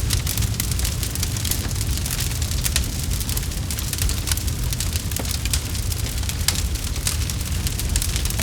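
Campfire burning, with a steady low rumble and many sharp, irregular crackles and pops from the burning wood.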